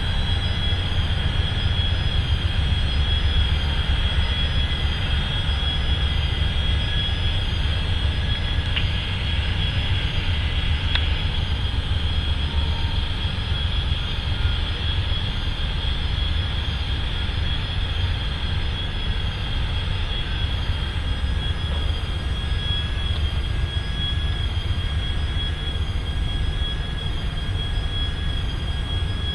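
Diesel freight train rumbling low and steady, with a thin, steady high-pitched squeal running over it.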